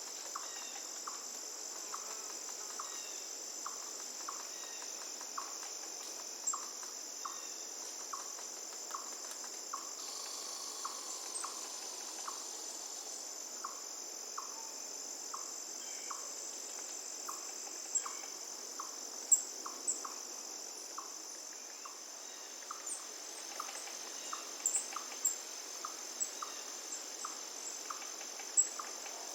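Forest ambience dominated by a steady, high-pitched insect chorus of crickets, with a short call repeated about twice a second and a soft wash of river water beneath. Scattered sharp clicks in the second half are the loudest sounds.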